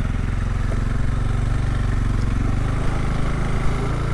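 Bajaj Pulsar NS200's single-cylinder engine running at low, steady revs as the motorcycle is ridden slowly.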